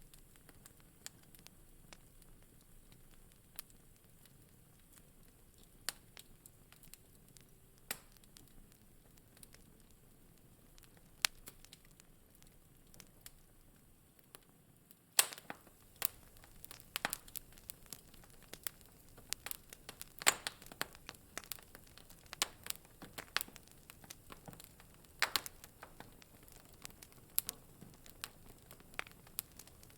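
Wood fire crackling in a fireplace: scattered sharp pops and snaps over a soft hiss, getting much busier and louder about halfway through.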